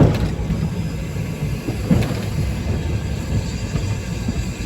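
Heritage passenger train running, heard from inside the carriage: a steady low rumble with two sharp knocks about two seconds apart.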